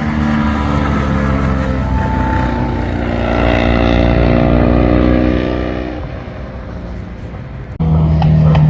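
Motorcycle engine running, its pitch rising and falling. Near the end it cuts abruptly to a louder, steady, deeper engine note.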